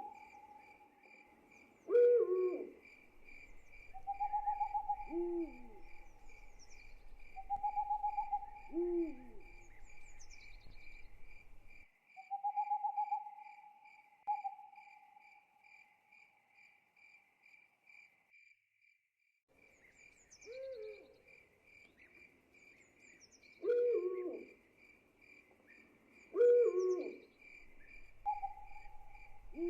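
Night ambience of an owl hooting in long, even notes every few seconds over crickets chirping in a steady, pulsing trill. Louder short calls that bend down in pitch come in between. The cricket trill drops out briefly about two-thirds of the way through.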